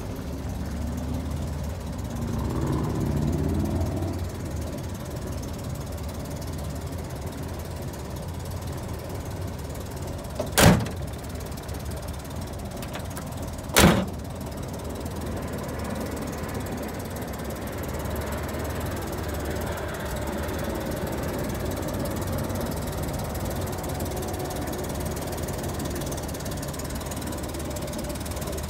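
1962 Chevrolet Corvair van's air-cooled flat-six engine idling steadily, with two loud thunks about three seconds apart partway through.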